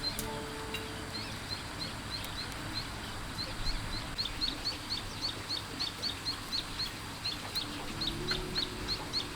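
A bird chirping over and over, short high chirps about two a second at first and quickening to about three a second after a few seconds.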